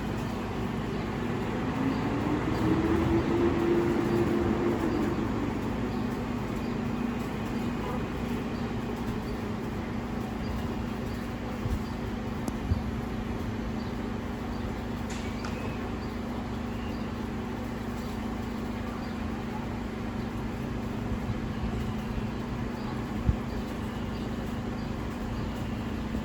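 Garbage truck's diesel engine idling with a steady hum, revving up and back down about two seconds in. A few light knocks come later.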